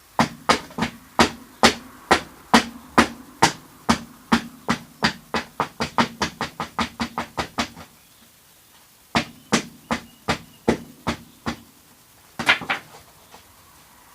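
Repeated sharp strikes on a hollow plastic container being cut open, about two to three a second and speeding up. They pause about eight seconds in, then a few more strikes follow, with a last double strike near the end.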